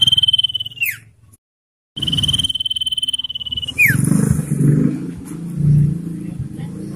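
Common iora giving its long trill: a high, rapidly pulsing note held on one pitch, each run ending in a quick downward slur. It cuts off abruptly about a second in and resumes after a short silent gap. Low rumbling noise follows in the second half.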